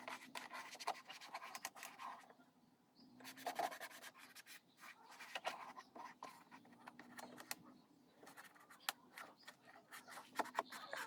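Cotton cloth wiping over a scooter's shampoo-coated plastic dashboard panel: faint, irregular rubbing strokes with small scratchy clicks, pausing briefly about two seconds in.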